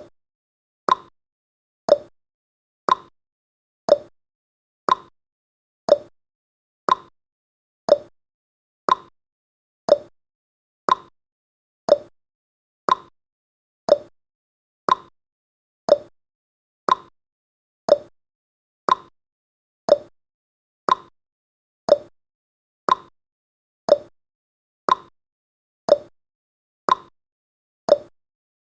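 Countdown timer's clock-tick sound effect: short, sharp ticks, one each second, evenly spaced.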